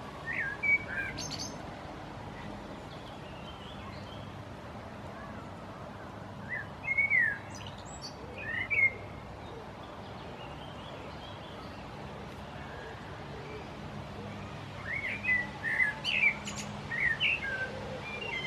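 Songbirds chirping: short, quick-gliding calls in three clusters, near the start, around the middle, and over the last few seconds, with a faint steady low hum underneath.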